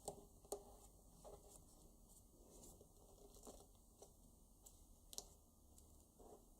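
Faint rustling and short crackles of a paper banknote being folded and creased by hand. The sharpest crackles come twice right at the start and once about five seconds in.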